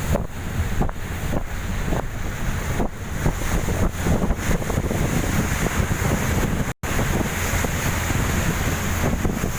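Wind buffeting the microphone over the steady rumble of a fast passenger boat under way, with water rushing past the hull. The sound drops out for an instant about seven seconds in.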